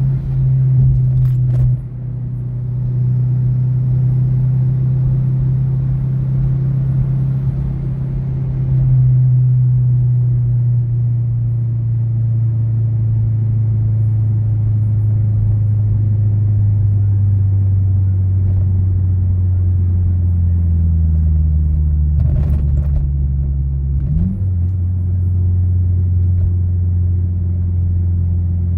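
Cabin drone of a Mazdaspeed6 turbocharged 2.3-litre four-cylinder while driving. The engine note drops a little about a third of the way in and then falls slowly as the car eases off, with a quick upward sweep in pitch shortly before the end.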